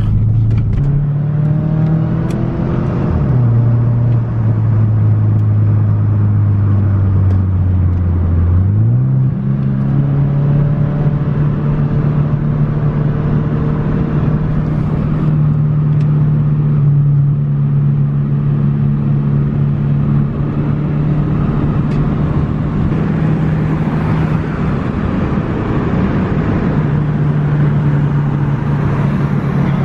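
Subaru Impreza 2.5 RS flat-four engine running through a deleted muffler, at changing engine speed. The pitch rises at the start and settles low for several seconds. About nine seconds in it climbs again and then holds steady, as when accelerating and then cruising.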